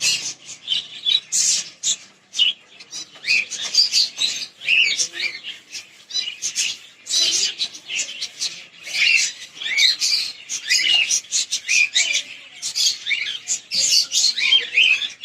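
A flock of caged pet birds, lovebirds, budgies and finches, chirping and squawking without a break, many short high calls overlapping.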